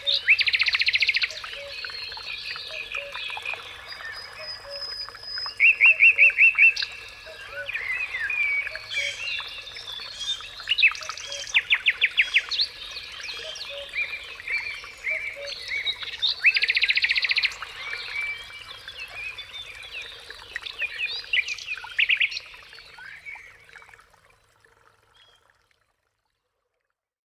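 Outdoor chorus of songbirds singing, with several fast, loud trills, over a low call repeated about once a second. It all fades out near the end.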